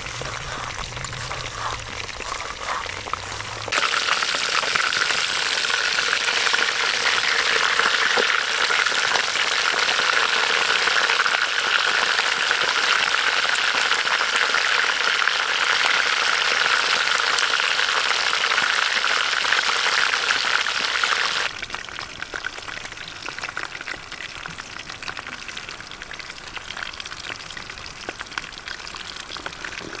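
Ribs deep-frying in hot oil in a wok: a loud, steady sizzle that starts suddenly about four seconds in and drops away abruptly about eighteen seconds later to a quieter sizzle with scattered crackles. Before it, a few faint taps of a cleaver on a wooden chopping board.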